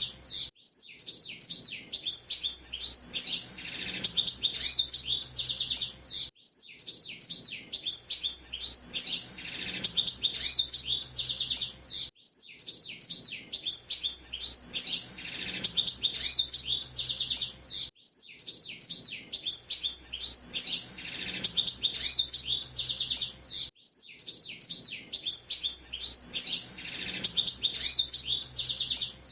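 Male hooded siskin (pintassilgo) singing a fast, high twittering song of rapid trills and chirps, in long phrases of about six seconds each, broken by short pauses.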